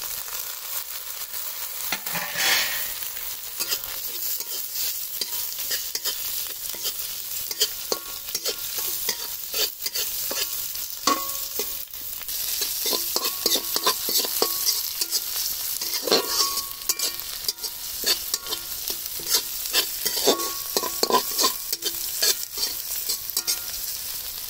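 Chopped onions and green beans sizzling steadily in hot oil in a metal kadai. A metal spatula scrapes and clinks against the pan as it stirs, with frequent sharp clicks and brief ringing taps.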